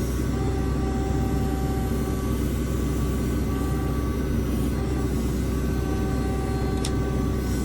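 Diesel engine of a JCB 3CX backhoe loader running hard and steady, with a steady whine of tones above the engine note. A single sharp click comes near the end.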